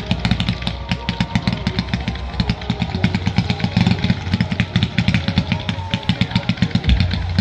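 Fireworks display, with rapid crackling pops from a volley of sparking shells, about ten a second, in a continuous run.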